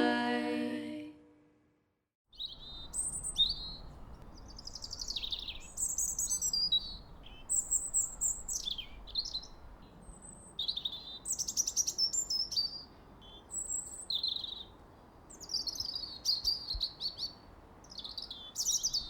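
A final held note of the song fades out, and after a brief silence small songbirds sing a steady run of short, high chirps and trills over a faint low background rumble.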